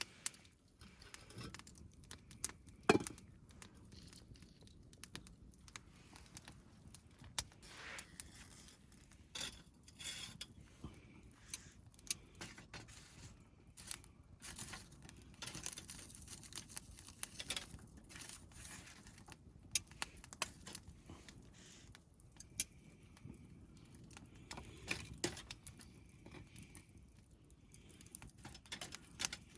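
Irregular small clinks, clicks and rustles of objects being handled, with no steady rhythm.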